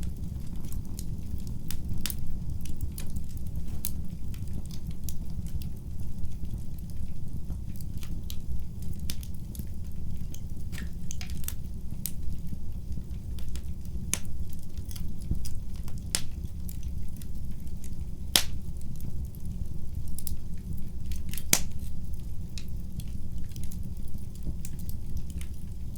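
Fire burning in a fireplace: a steady low rumble of flame, with irregular sharp crackles and pops and a few louder snaps scattered through.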